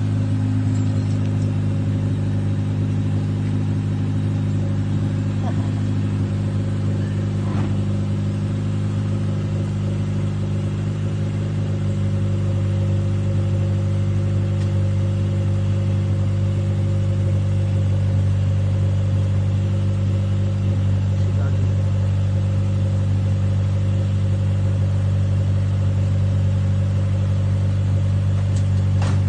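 Honda Civic four-cylinder engine idling steadily; the engine has a knocking connecting rod.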